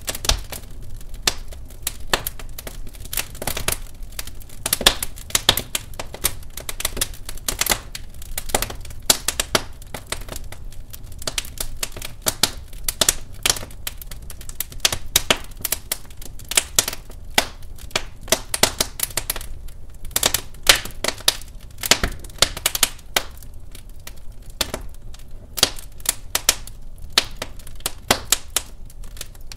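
Wood fire crackling in a fireplace: many sharp irregular pops and snaps, a few every second, over a low steady rumble of the flames.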